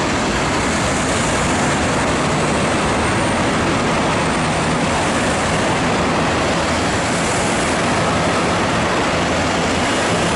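Train running, a steady rushing noise with a low hum underneath.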